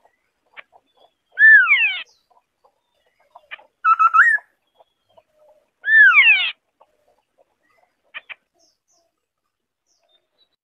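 White-browed scimitar-babbler singing: three short phrases about two seconds apart, the first and last made of quick falling whistled notes, the middle one a short run of notes at a level pitch.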